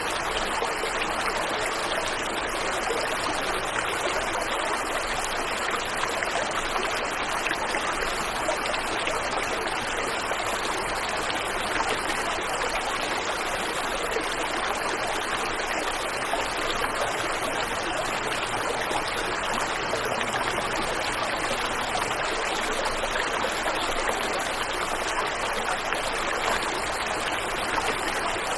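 Waterfall and river water rushing steadily, an even hiss with no change in level.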